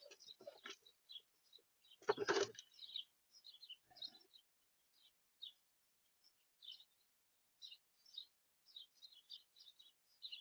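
Small songbirds chirping repeatedly at a backyard feeder in short, high calls, with a brief louder thump about two seconds in.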